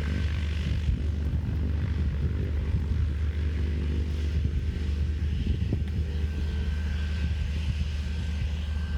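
Cessna 208 Caravan's single PT6A turboprop engine and propeller running steadily, a continuous low hum with a faint high whine.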